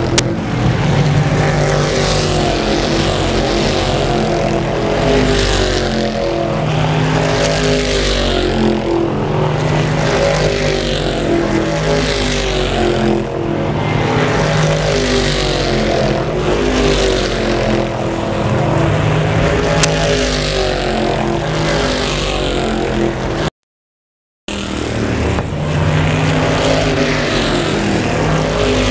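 A pack of stock race cars running at high revs, with several engines heard at once and their pitch rising and falling as the cars go around. The sound cuts out completely for about a second near the end.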